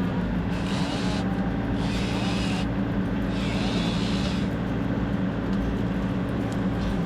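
TYM T574 hydrostatic tractor running steadily under work, its engine and hydraulic pumps droning at a constant pitch. A higher hiss comes and goes three times in the first half.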